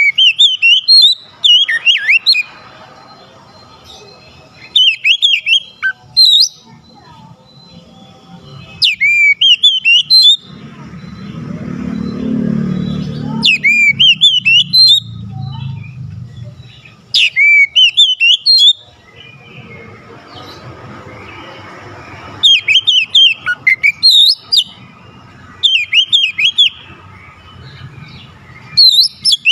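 Oriental magpie-robin (kacer) in full song: loud, varied phrases of sweeping whistles and chirps, delivered in bursts every two to three seconds with short pauses between. A low rumble swells and fades about halfway through.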